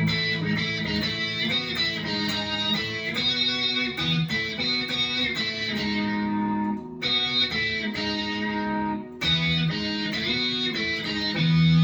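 Electric guitar played through a Boss SY-200 guitar synthesizer pedal on its 'fifth lead' preset: a synth lead line of held and changing notes, broken by two short pauses between phrases.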